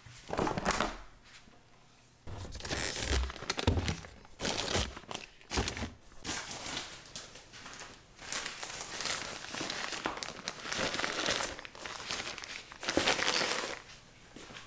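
Plastic packaging crinkling and rustling as it is handled, in irregular bursts, with a few low bumps about three to four seconds in.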